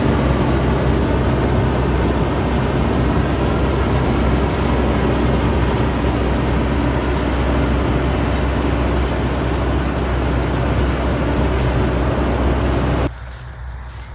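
Fortschritt E514 combine harvester running loud and steady as it cuts the field, its diesel engine hum under the rushing clatter of the threshing and cutting machinery. The sound drops off sharply near the end, leaving a quieter low hum.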